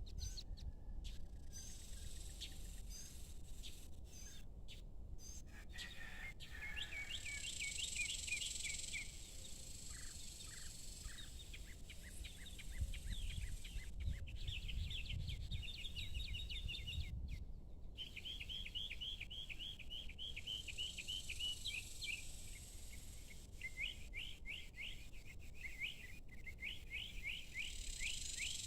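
A small bird singing in runs of quick, short chirps, several phrases of rapid notes in a row, over a faint steady high-pitched insect hiss and a low background rumble.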